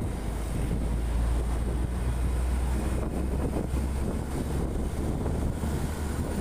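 Wind buffeting the microphone over a steady low rumble from a moving vehicle travelling along the road.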